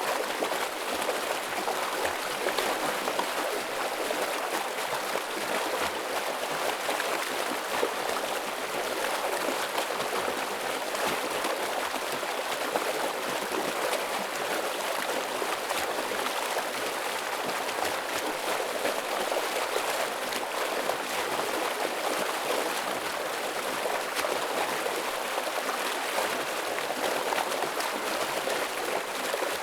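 Stream water rushing and splashing over rocks in heavy flow, a steady, unbroken sound with fine gurgling texture.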